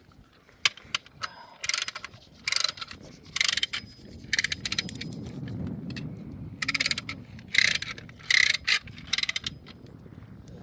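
Repeated short scraping or crunching strokes, roughly one a second with a brief pause midway, over a faint low rumble.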